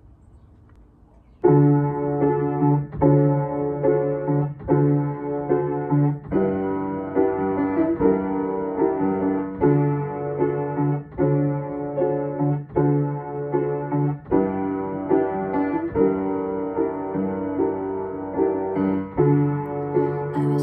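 Solo piano playing a slow introduction of repeated chords, one struck roughly every three-quarters of a second, starting about a second and a half in.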